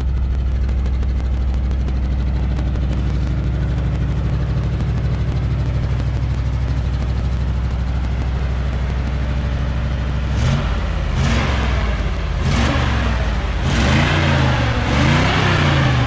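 1973 Ford F-250's 360 V8 idling steadily, then, from about ten seconds in, revved in several quick blips that rise and fall in pitch.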